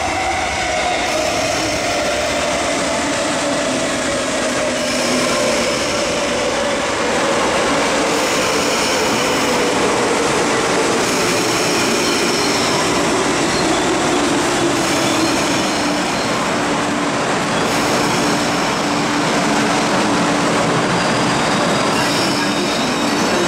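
Electric commuter train braking into the platform: its motor whine falls slowly in pitch over wheel and rail noise, then settles into a steady hum once the train has stopped.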